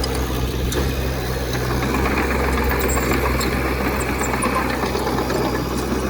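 Heavy earthmoving machine's diesel engine, bulldozer or dump truck, running steadily at an even, low rumbling pitch.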